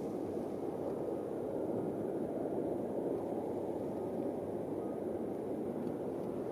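Steady, even rushing roar of a jet airliner's engines, heard at a distance, with no change in pitch.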